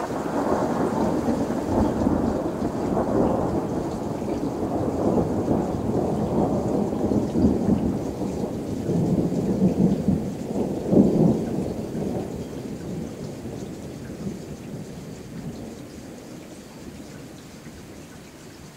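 A long peal of thunder rumbling and rolling, swelling to a louder burst a little past halfway and then dying away slowly, with rain falling.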